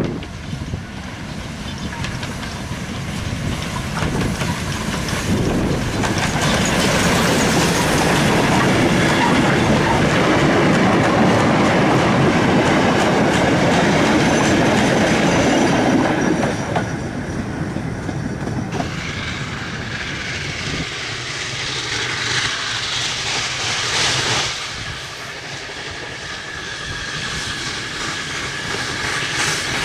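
Freight train of goods vans rolling past at close range behind a steam tank engine, the wheels clattering over the rail joints. It is loudest for the middle part and then fades.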